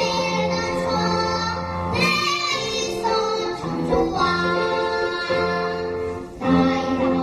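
A child singing a Korean children's song in long held notes over instrumental accompaniment.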